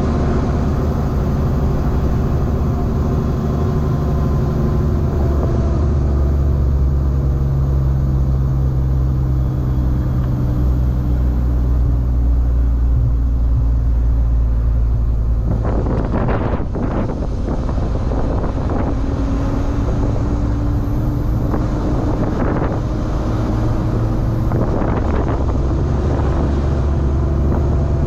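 Semi-truck diesel engine running while driving, heard from inside the cab: a steady low drone whose pitch shifts slowly. About halfway through come a short burst of hiss and rattle, then a couple of fainter ones.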